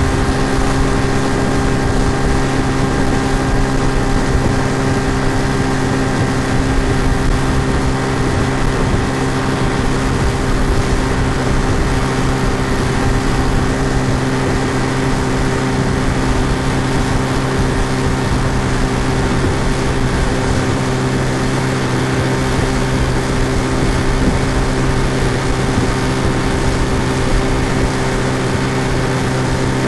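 Looped sound effect of an outboard motor running at a steady speed: an even, unchanging drone with a constant pitch.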